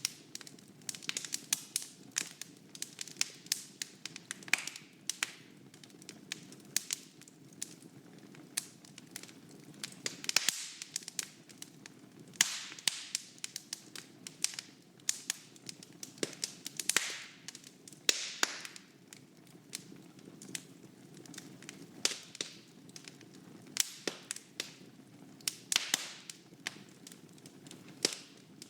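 Wood fire burning in a fireplace, crackling with many irregular sharp pops and snaps, several a second, over a steady low rush of the flames.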